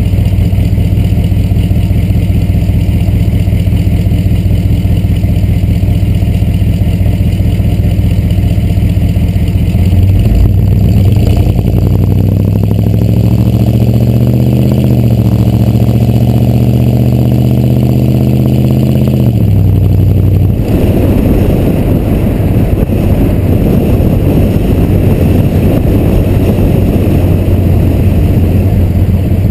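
A 6.2 Detroit diesel V8 running through straight-piped exhaust stacks. It runs steadily at first, then about ten seconds in it accelerates with a rising pitch and holds. Its pitch drops off sharply about two-thirds of the way through, and after that it runs on with a rougher, noisier sound.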